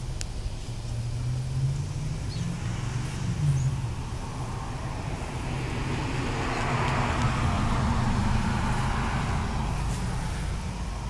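A car going by, its low engine hum under tyre noise that swells to a peak about seven seconds in and then fades. A few faint short bird chirps sound over it in the first few seconds.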